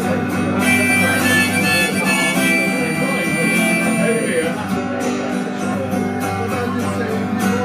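Harmonica playing an instrumental break over strummed guitar chords between sung verses, with several held high notes.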